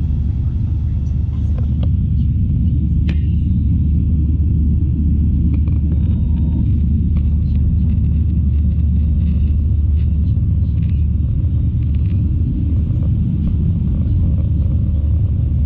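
Steady low rumble of an Airbus A321 airliner heard inside the passenger cabin, with engine and air noise.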